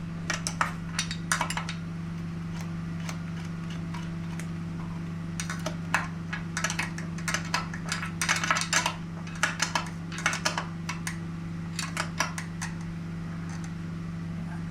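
Scattered clinks and taps of metal hand tools and hardware (nuts, washers, sockets) as nuts are run down onto studs, in loose clusters of quick clicks, over a steady low electrical hum.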